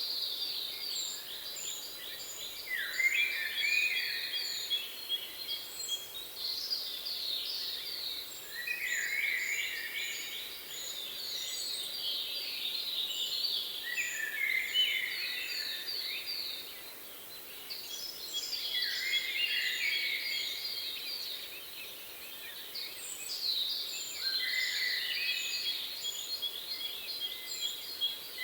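Birdsong: trilled song phrases repeated every five or six seconds, each dropping to lower notes at its end, with a run of short, high chirps alongside.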